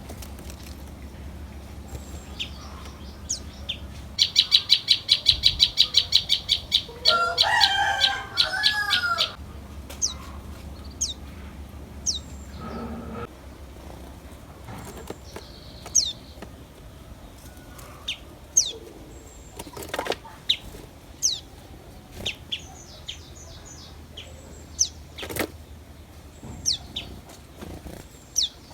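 Songbirds calling. About four seconds in comes a fast, even run of loud high notes for about three seconds, followed by a longer, lower, wavering call. After that there are scattered single sharp chirps that fall in pitch, a few seconds apart, over a low steady hum.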